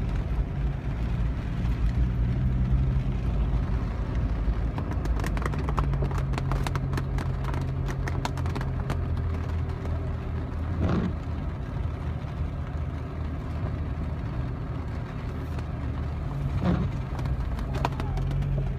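A car engine running steadily, its hum shifting in pitch now and then, with a spell of irregular sharp clicks about a third of the way in.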